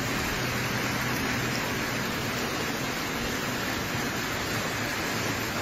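Steady rain falling on wet, puddled ground: an even hiss with no separate drops or thunder.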